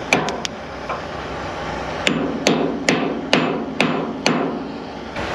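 Hammer blows: a few quick taps at the start, then six steady strikes about two and a half a second.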